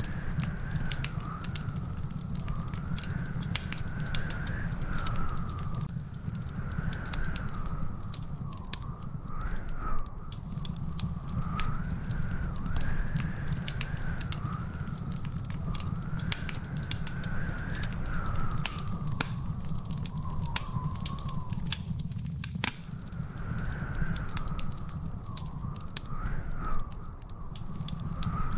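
Wood fire crackling with a steady stream of sharp pops and snaps over a low rumble. A thin whistle-like tone wavers up and down in pitch almost throughout, breaking off briefly about three-quarters of the way in.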